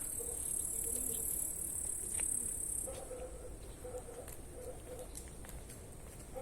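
A cricket's continuous high-pitched trill, which cuts off about three seconds in. After it, faint short low notes repeat a few times.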